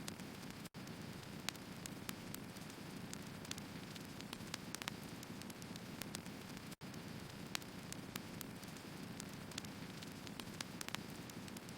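Firewood burning: a steady low rushing with frequent sharp crackles and pops from the logs. Twice the sound cuts out for an instant.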